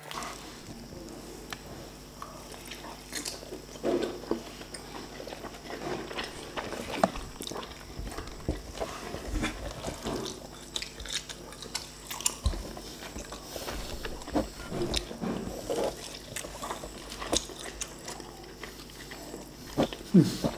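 Two people chewing soft lempeng flatbread dipped in sambal: a steady stream of small wet mouth clicks, lip smacks and chewing sounds.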